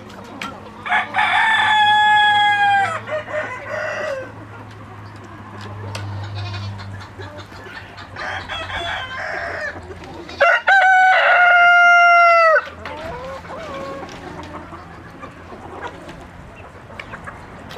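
Roosters crowing: two long crows, one about a second in and another about ten seconds in, each held and then falling away at the end. Between them hens cluck more quietly, over a low steady hum.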